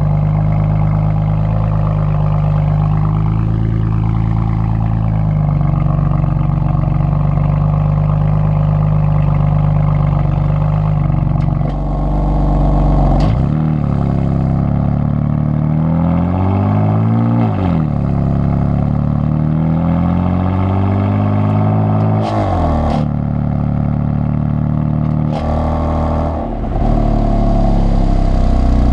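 BMW M4's twin-turbo inline-six running through its exhaust on a cold start: it holds a steady fast idle, then from about twelve seconds in the engine speed rises and falls several times as it is revved, with a louder, rougher burst near the end.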